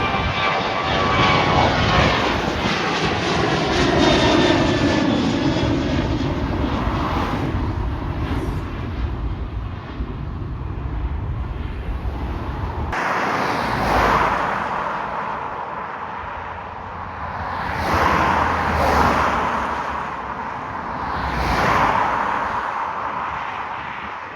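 Aircraft engines passing close by, a loud rush with a whine that slides down in pitch as the plane goes past. About halfway through the sound changes abruptly, followed by several loud swells of noise.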